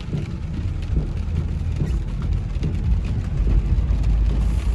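Car driving, a steady low engine and road rumble heard from inside the cabin, with a few faint knocks.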